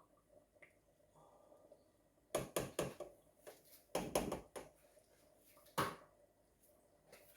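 Kitchen clatter of cookware and utensils being handled: a quick run of sharp knocks about two and a half seconds in, another cluster around four seconds, and a single knock near six seconds.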